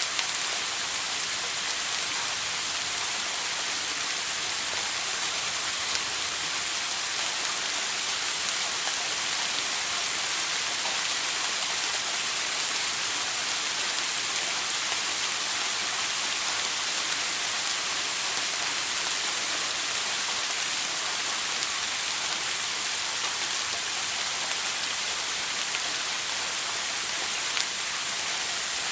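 Shower running: water spray falling on a hard surface, an even, steady hiss with the most energy high up and a few faint drip ticks.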